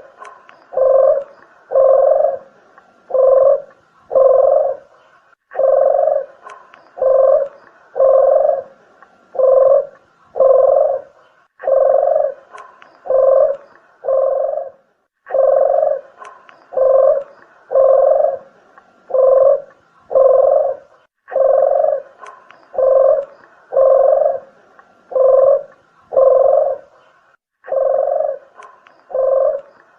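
Red turtle dove (puter geni) cooing: loud low coos repeated about one and a half times a second in runs of several notes, with short pauses between runs, a call used to lure the birds.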